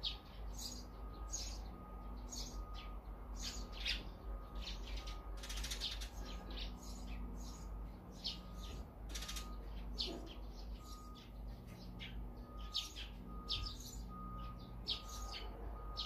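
Small birds chirping: many short, high calls in quick succession, overlapping one another.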